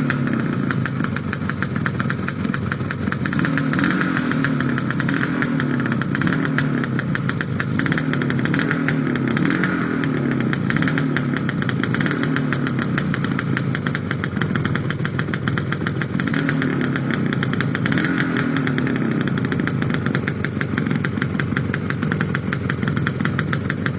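A two-stroke motorcycle engine running steadily near idle, its pitch rising and falling slightly every couple of seconds.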